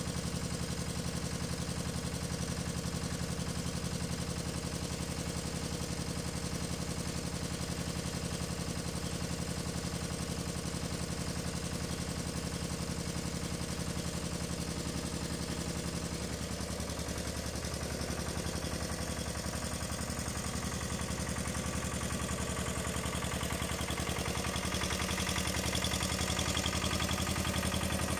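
1982 Tomo Vinković TV 522 mini tractor's engine running steadily at idle, getting somewhat louder near the end.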